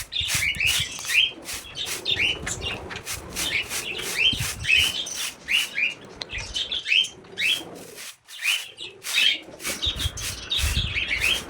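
Budgerigars chirping in a steady stream of short, quick chirps, with many sharp clicks and scratches mixed in.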